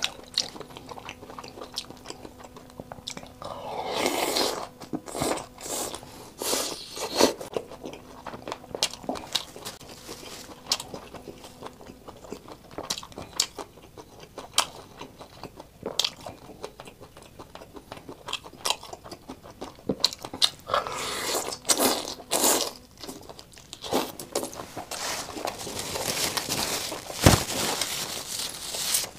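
Close-miked chewing and biting of skewered shrimp in chili oil, with many small clicks. There are louder bursts about four seconds in and again around 21 and 26 seconds, and a single sharp knock near the end.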